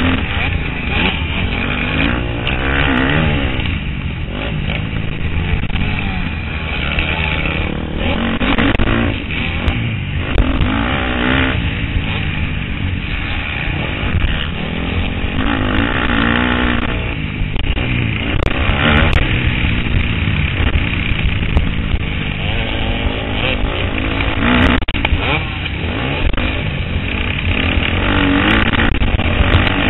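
KTM 250 SXF's single-cylinder four-stroke motocross engine, ridden hard, revving up and dropping back again and again as the rider accelerates, shifts and rolls off for corners and jumps.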